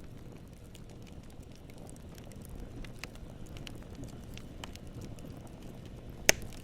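Wood campfire burning: a low steady rumble of flames with scattered crackles, and one loud pop a little after six seconds in.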